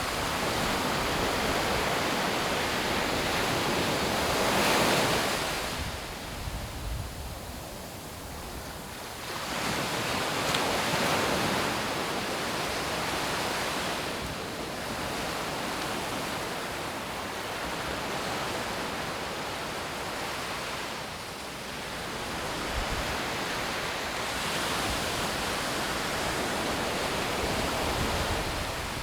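Sea waves breaking and washing on a sandy beach, the surf swelling and falling away every few seconds, loudest about five and ten seconds in.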